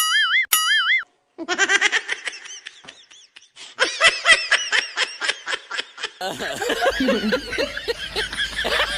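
Two wobbling cartoon boing sound effects, then a long burst of laughter that pulses rapidly and peaks about four seconds in. From about six seconds in, background noise with faint voices and a low hum takes over.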